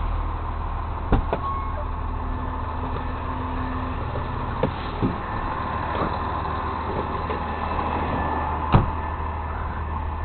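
Truck engine idling steadily, with a few short knocks and one sharper clank near the end.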